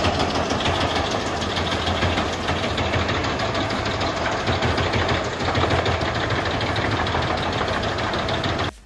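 A large machine's engine running steadily with heavy mechanical noise, cutting off suddenly near the end.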